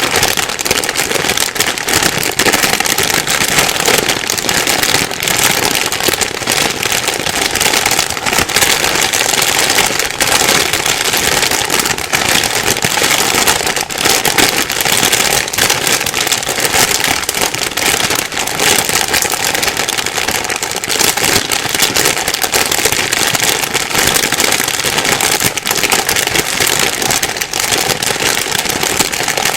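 Plastic bag being rustled and crinkled without a break, a dense crackle of many small crinkles.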